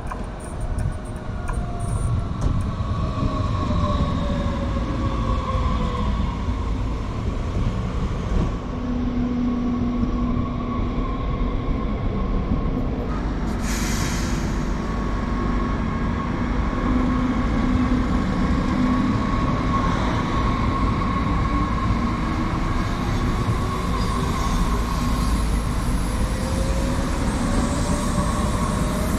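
Electric train running on the rails, its motor whine falling in pitch over the first several seconds and rising again near the end, over a steady rail rumble, with a short hiss about halfway through.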